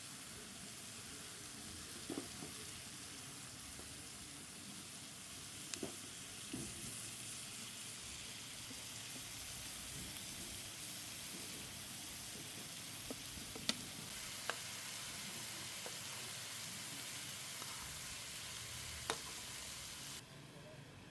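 Food frying in a pan over a campfire, a steady sizzle with a few sharp clicks scattered through it. The sizzle cuts off abruptly near the end.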